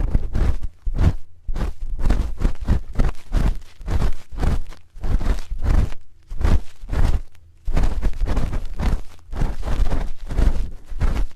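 A spoon scraping and rubbing against a microphone in short repeated strokes, about two a second, each with a dull, close handling rumble.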